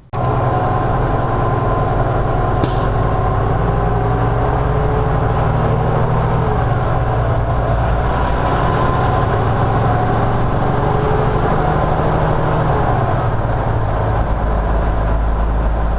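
Semi-truck running in slow traffic: steady diesel engine and road noise, with a short hiss about three seconds in.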